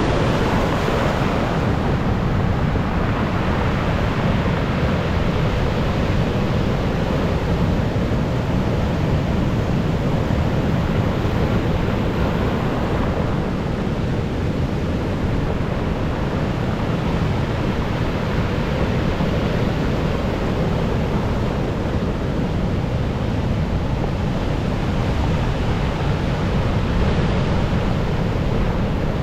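Stormy sea surf breaking steadily on the shore, with wind buffeting the microphone; the surge swells a little about a second in, around halfway, and near the end.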